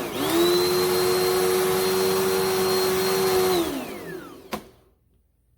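Dirt Devil Endura Lite corded upright bagless vacuum cleaner running with a steady motor whine, then switched off about three and a half seconds in, its pitch falling as the motor spins down. A sharp click follows near the end.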